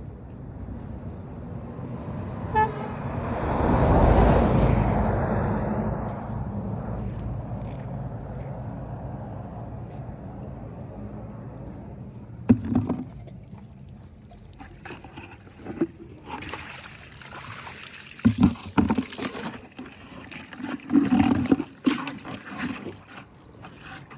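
A car drives past close by, building to its loudest about four seconds in and then fading away, with a short horn toot just before it passes. Later come scattered knocks and rustles.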